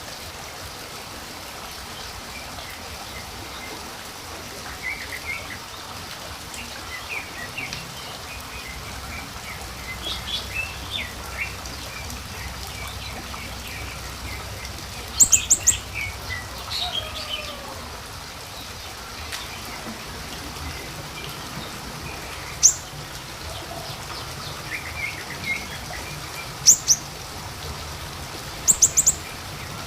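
Small songbirds, the siri-siri kecil of a lure recording, chirping and twittering in short scattered phrases over a steady hiss. Several louder, very high quick chirp bursts come about halfway through and again near the end.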